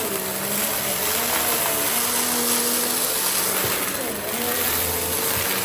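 Goodmans TurboMax vacuum cleaner running: a steady motor whine over the rush of air through it. The motor's pitch dips and recovers about four seconds in.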